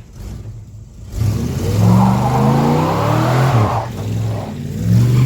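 Dodge Dart's engine, fed by a Thermoquad four-barrel carburetor, being revved: one long rise in pitch over about two and a half seconds that falls away, then a shorter blip of the throttle near the end.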